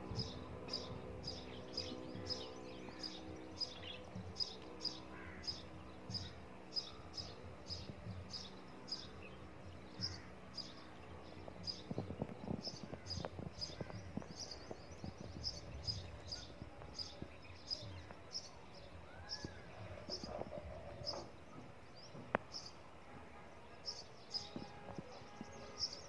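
A small bird chirping over and over, short high notes at about two a second, with faint low knocks and rustling around the water pots.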